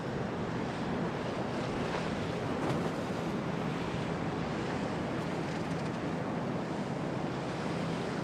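Storm wind and rough waves in a harbour: a steady rushing of wind and surf, with wind buffeting the microphone and a faint low steady hum underneath.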